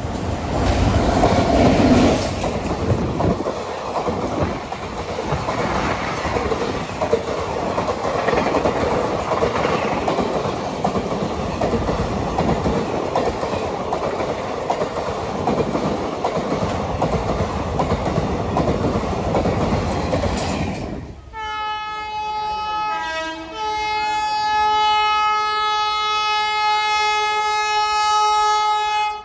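Express train of coaches rushing past at speed: a steady roar of wheel and rail noise with clatter, loudest in the first couple of seconds, for about twenty seconds. Then it cuts off suddenly and an approaching train's horn sounds long and loud, a chord of steady tones that briefly shifts pitch after a second or two.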